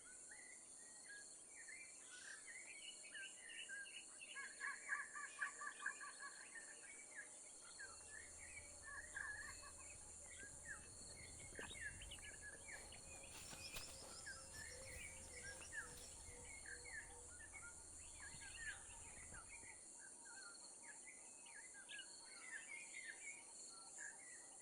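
Faint wild birds chirping and calling, many short calls scattered throughout, over a steady high-pitched hiss.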